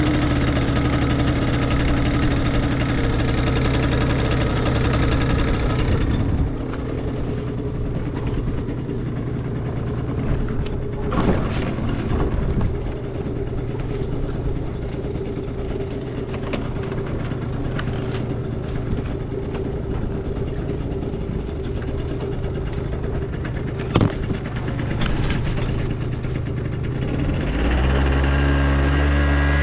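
Yamaha Vino 5AU 50cc two-stroke scooter engine running with no unusual noises: it drops to a quieter steady idle about six seconds in, a few short clicks sound over it, and it runs louder again near the end.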